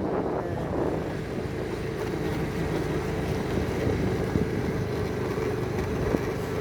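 A motor running steadily with a constant hum, with wind buffeting the microphone.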